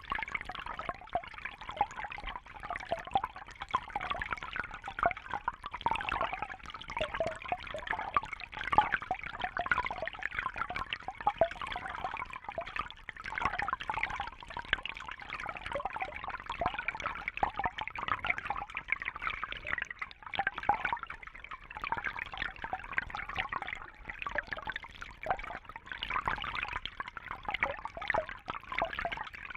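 Water trickling and bubbling steadily, a continuous busy splashing patter with no break.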